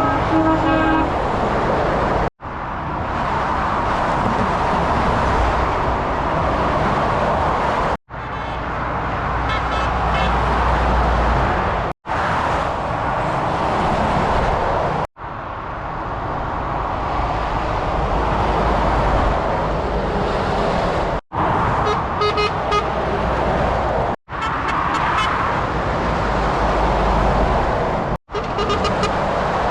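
Heavy lorries passing on a motorway: a steady rush of tyres and engines with a low rumble, broken by several abrupt edit cuts. A truck horn sounds near the start, and more horn blasts come about a third of the way in and again about three quarters of the way through.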